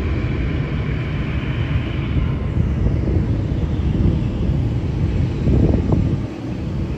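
Jet airliner engines running on the apron: a steady low rumble with a faint high whine in the first few seconds. The level drops a little about six seconds in.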